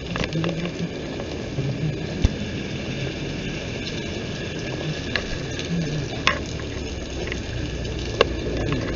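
Steady hiss of falling rain, with a few sharp clicks from the phone being handled.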